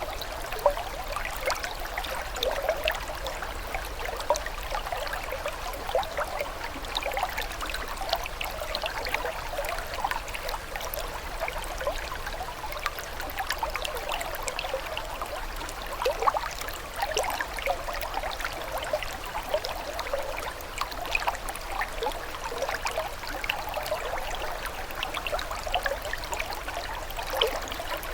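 Water trickling steadily, a dense, even run of small bubbling splashes and drips.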